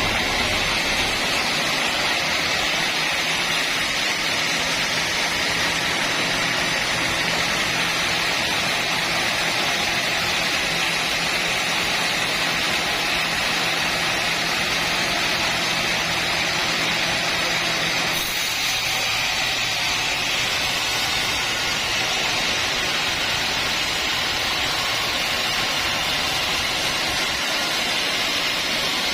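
Sawmill machinery running with a steady, loud noise as the saw works through a log; a low hum drops out about 18 seconds in and the sound changes slightly.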